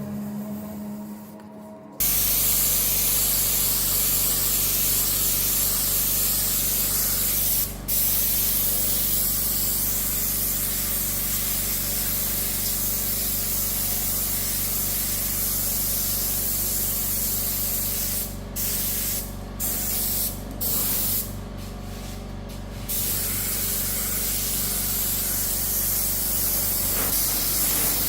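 Compressed-air spray gun spraying, a loud steady hiss over a low machine hum. It starts suddenly about two seconds in, and the trigger is let off briefly several times near the end.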